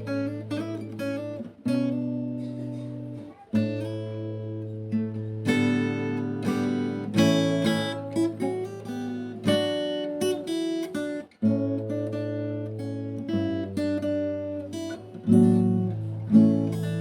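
Background music: an acoustic guitar plucking notes and strumming chords over sustained low notes.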